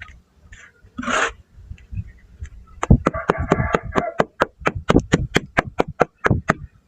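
Dry grainy shapes being crumbled by hand: a short gritty crumble, then a quick even run of sharp crunches, about five a second.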